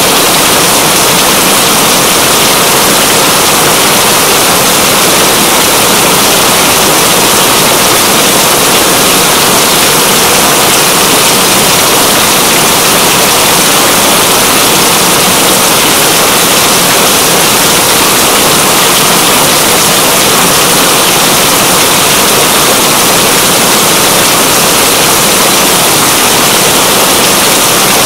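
Steady, heavy rain: a dense, even hiss that does not change.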